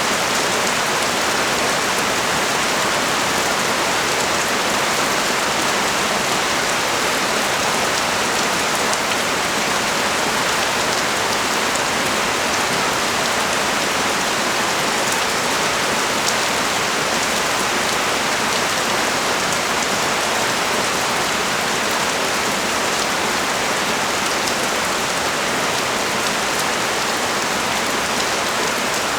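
Heavy rain pouring steadily onto the street, an even hiss with scattered drop ticks and no letting up.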